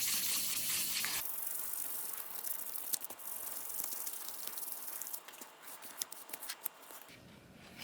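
1000-grit green abrasive being rubbed over a clear plastic model part, a steady scratchy hiss with small ticks as the sanding strokes go on. The sound changes abruptly about a second in and drops away near the end.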